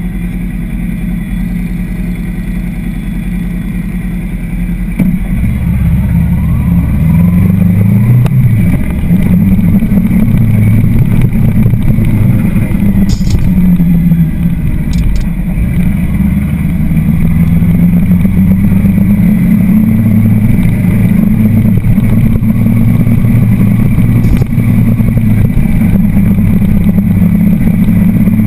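Motorcycle engine, heard from the handlebars: idling steadily at first, then about five seconds in getting louder as the bike pulls away and rides on, its pitch rising and falling with the throttle and gear changes.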